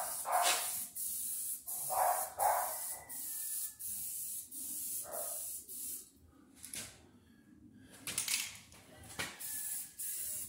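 Aerosol can of primer spraying in repeated short hissing spurts, with a pause of about two seconds midway.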